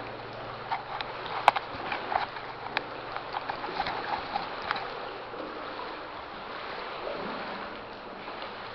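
People wading through water in a flooded metro tunnel: a run of splashes and sloshing from their steps during the first five seconds, the sharpest about one and a half seconds in, then calmer moving water.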